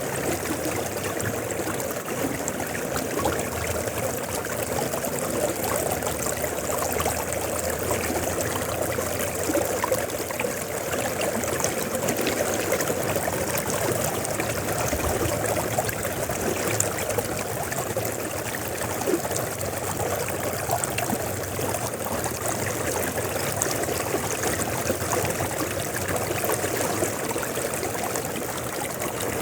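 River water flowing steadily: a continuous, even rush and trickle with no break or change.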